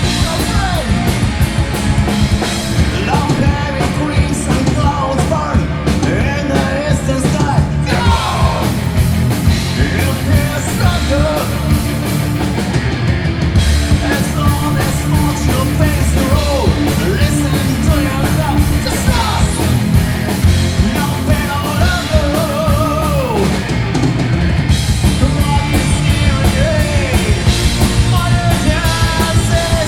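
Rock band playing a song with drums, bass and guitar under a sung, at times shouted, lead vocal.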